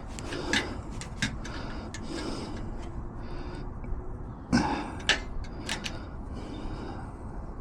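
Scattered light clicks and taps over a low steady background rumble, with a louder knock about four and a half seconds in.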